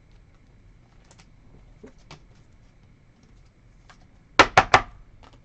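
Trading cards being handled on a table: scattered faint clicks and slides, then three quick, sharp taps about four and a half seconds in.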